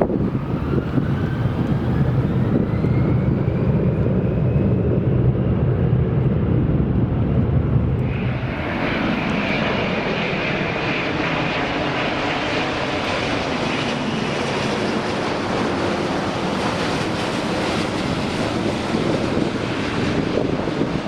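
Jet airliners landing. A Boeing 757-200's engines rumble deeply with a rising whine, then about eight seconds in the sound changes abruptly to an Airbus A330-900neo's Rolls-Royce Trent 7000 engines on approach, a steady jet noise.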